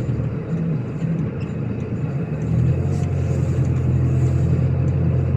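Diesel car engine running while driving slowly, a steady low drone; the engine is still cold and warming up as it goes. It eases off briefly and picks up again about two and a half seconds in.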